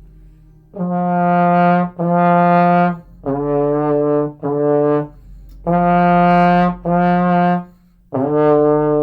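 Trombone playing a simple tongued tune on two notes, F and D, with D in fourth position: two Fs, two Ds, two Fs, then a long held D that starts about eight seconds in.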